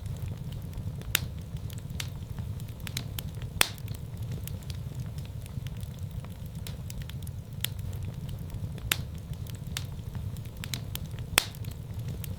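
Fire burning in a fireplace: a steady low rumble of flames with sharp crackling pops at irregular intervals, the loudest about a third of the way in and near the end.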